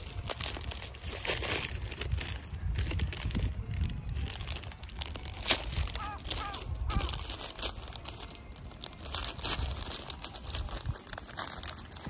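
Plastic wrapper of an instant ramen packet crinkling and rustling in irregular bursts as it is handled and opened.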